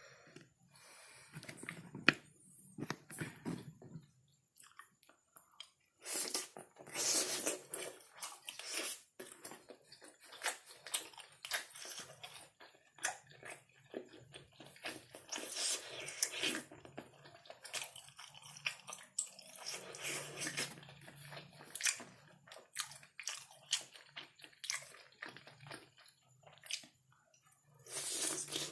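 Chewing and biting soft, sticky kerupuk basah (temet): irregular wet mouth sounds, smacks and clicks, louder in a few stretches.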